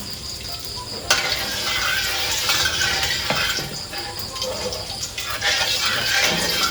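Food hitting a hot pan about a second in and sizzling loudly, with a utensil stirring and clinking against the pan.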